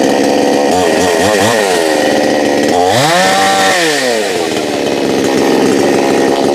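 Two-stroke gas chainsaw engine running at speed, its pitch wavering about a second in, then revving up sharply near three seconds in and dropping back to a steady run as the throttle is squeezed and eased.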